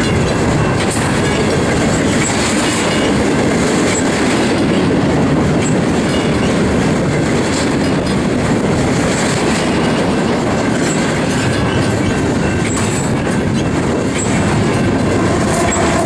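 Double-stack intermodal container cars rolling past: a steady rumble of steel wheels on rail with rhythmic clickety-clack over the rail joints. Near the end the engine of the rear distributed-power locomotive, a GE Evolution-series C45ACCTE, comes in as a steady hum.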